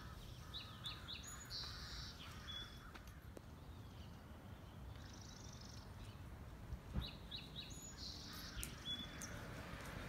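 A songbird singing, the same phrase twice about seven seconds apart: a few quick short high notes followed by a buzzy note, over a faint low background rumble. There is one soft low bump about seven seconds in.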